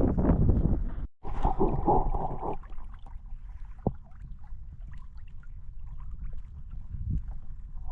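Wind rumbling on the microphone with water sloshing around a sea kayak. The sound cuts out for an instant about a second in, then is loud again briefly before settling into a quieter steady rumble.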